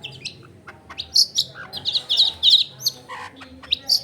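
Long-tailed shrike (cendet) singing a fast, varied song of sharp chirps and whistled notes, with quick runs of repeated rising-and-falling notes. The song is full of mimicked phrases (isian).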